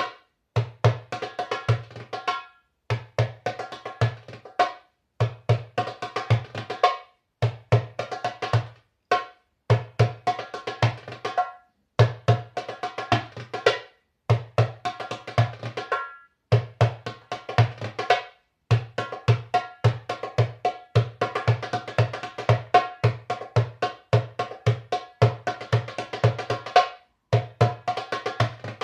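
Middle Eastern hand drum played solo: deep bass strokes mixed with sharp, bright high strokes in fast rhythmic runs, phrase after phrase with brief pauses between them.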